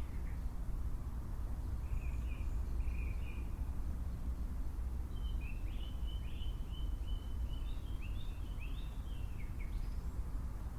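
Wild birds calling, a short run of high chirps and then a longer string of quick, slurred notes, over a steady low rumble.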